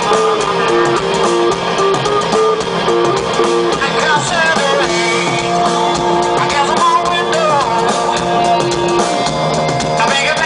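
A band playing a rock-style song: a repeating two-note guitar riff, then sliding melody lines and held notes coming in from about four seconds in.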